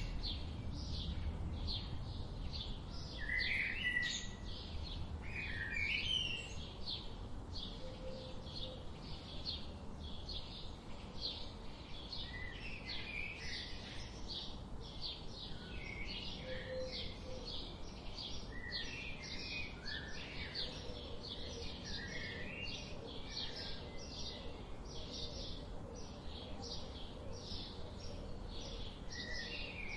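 Several birds singing together: a steady run of short high chips, about three a second, with lower warbled phrases breaking in now and then, over low steady background noise.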